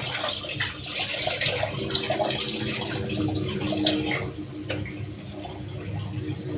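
Kitchen tap running into a sink while dishes are washed by hand, with a few sharp clinks of crockery. The running water eases off a little past the middle.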